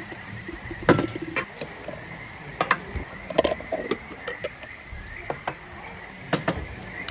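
Frogs calling in a steady, continuous trilling chorus, with a few sharp clicks and knocks over it, about a second in, midway and near the end.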